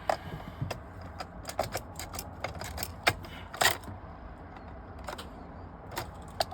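A run of irregular light clicks and taps, with a few louder knocks about three and a half seconds in, over a low steady background hum.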